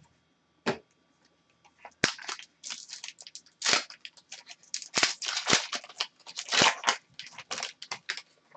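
Trading cards and their foil pack wrapper being handled at close range: a quick run of crinkles, rustles and sharp snaps as cards are slid and flipped.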